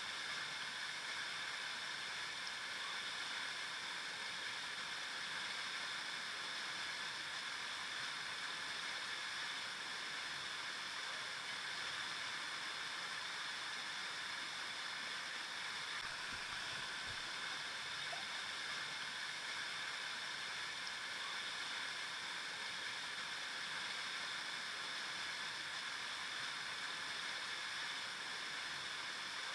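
River water flowing and rushing over rocks in a steady, even wash.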